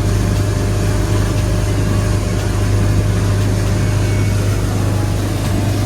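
An engine running at a steady, unchanging speed, with a constant low hum under a loud rushing noise.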